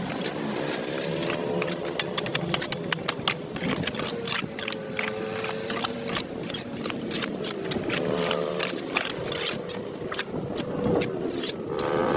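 A small motor running with a wavering hum, under rapid irregular scraping clicks.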